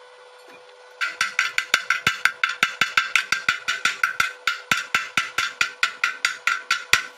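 A hammer striking metal in quick, even blows, about four to five a second, starting about a second in; each blow has a short metallic ring.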